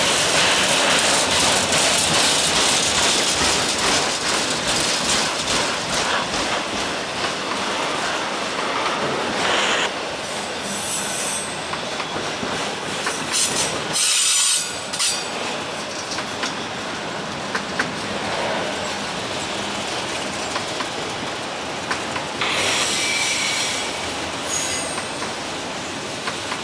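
Railroad cars rolling past on the track, a steady loud rumble of wheels with rapid clicking over the rail joints. Several brief high-pitched wheel squeals come in now and then.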